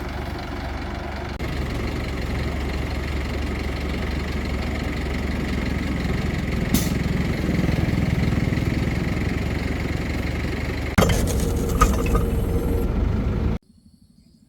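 Crane's engine running steadily, getting louder about a second and a half in, with a sharp click midway and a couple of knocks near the end; the sound cuts off abruptly shortly before the end.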